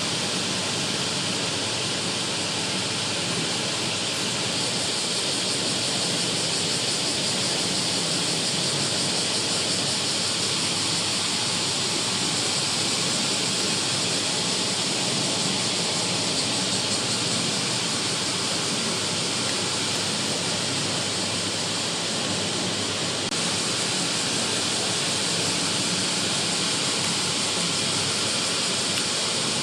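Heavy typhoon rain falling as a steady, even hiss without pauses or changes.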